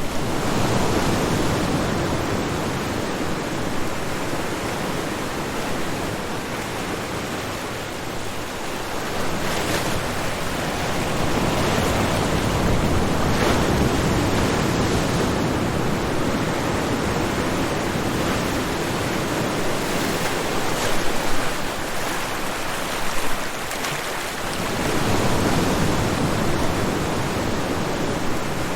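Ocean surf: waves breaking and washing up a shore, the rush swelling and easing in slow surges several seconds apart, with a few brief splashes.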